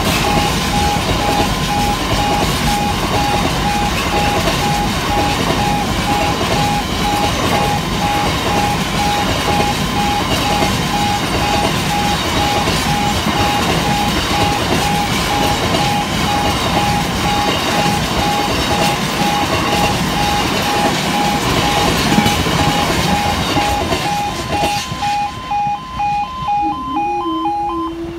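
Long rake of bogie oil tank wagons of a freight train rolling over a level crossing, the wheels rumbling and clattering on the rails, while the crossing's warning alarm pulses steadily. The train noise thins out about three seconds before the end as the last wagons clear, and a steady tone starts just before the end.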